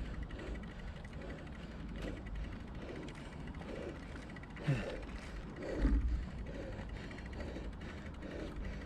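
Bicycle drivetrain ticking and creaking in a steady rhythm, about twice a second, with low wind rumble on the microphone that gusts louder twice near the middle.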